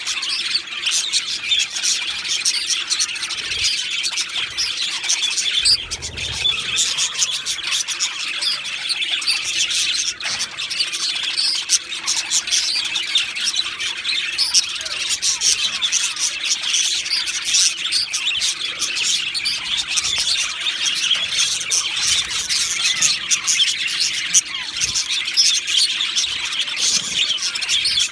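Male budgerigars chattering and warbling without a break, a dense run of quick overlapping chirps and squawks.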